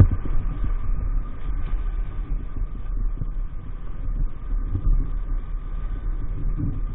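Small 50cc motorbike engine running steadily while riding, with a faint steady whine, under a heavy low rumble and irregular low thumps.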